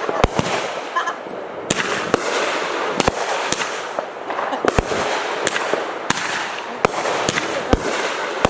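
Fireworks going off: about a dozen sharp bangs at irregular intervals over continuous crackling.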